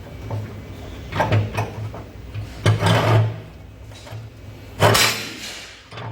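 Several short scraping and sliding sounds with knocks, in three groups, over a steady low hum.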